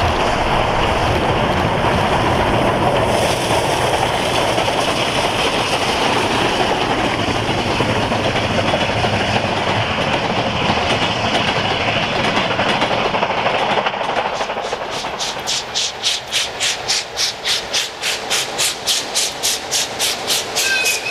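Steam train running by: a loud, steady rush of noise, which after about fourteen seconds gives way to a fast, even beat of about four to five strokes a second.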